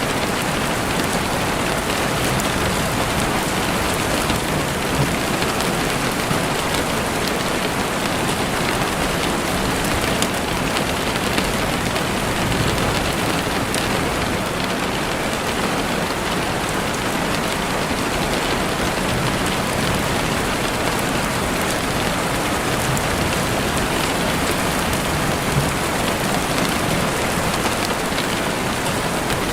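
Heavy rain falling steadily on a window, a dense even patter with scattered sharper drop ticks.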